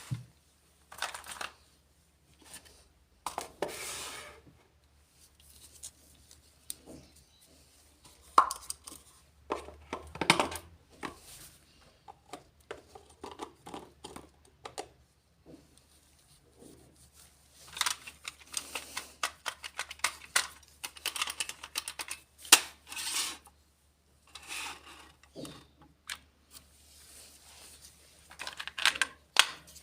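Small plastic miniature toy pieces being handled and set down: irregular light clicks, taps, scrapes and rustles, with short quiet gaps between them.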